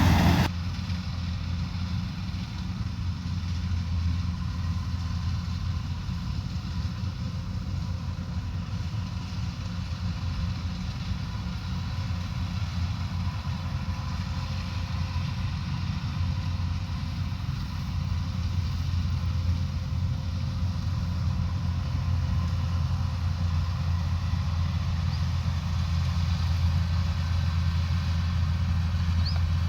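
Combine harvester engine running steadily, a low even drone that grows slightly louder toward the end.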